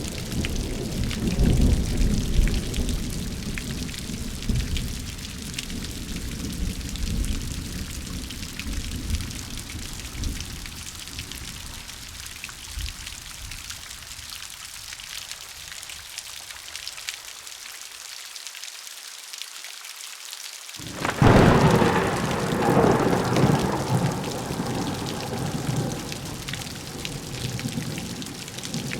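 Steady rain with thunder. A low thunder rumble fades away over the first ten seconds or so; then, about 21 seconds in, a sudden loud thunderclap breaks out and rumbles off while the rain continues.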